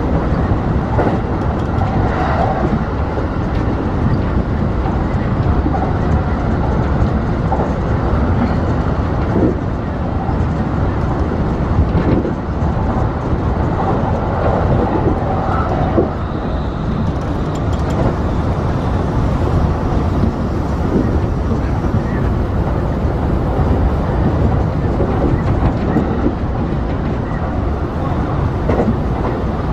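Kintetsu Kyoto Line express train running at speed, heard from inside the front car: a steady low rumble of wheels on rails, with a few short knocks here and there.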